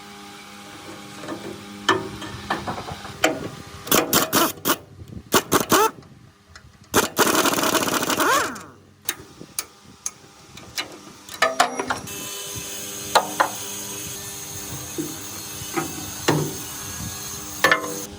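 Workshop tool sounds on metal parts: a series of sharp knocks and clicks, with a rough scraping noise lasting about a second and a half around seven seconds in. About twelve seconds in, a steady hum with a high whine starts under further knocks.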